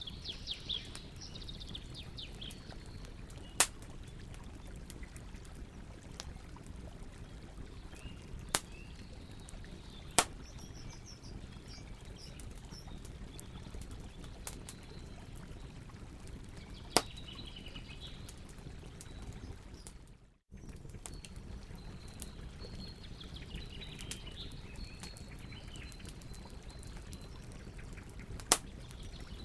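Campfire crackling with a handful of sharp, loud pops spaced several seconds apart, over a steady rush of river water, with birds chirping now and then. The sound cuts out for an instant about twenty seconds in.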